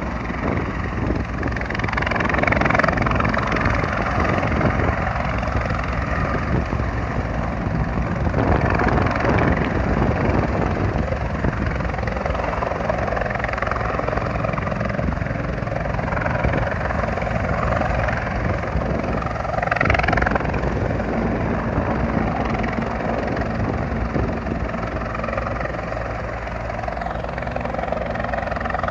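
Rescue helicopter's rotor and turbine running steadily, with a continuous fast rotor beat.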